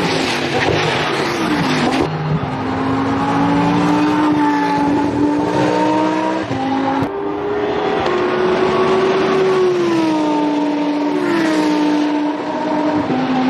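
Lamborghini Essenza SCV12 race car's V12 engine running hard on track, its pitch rising and falling through the gears, with drops in pitch around two seconds in and again near ten to eleven seconds. The sound breaks off abruptly a few times where the shots change.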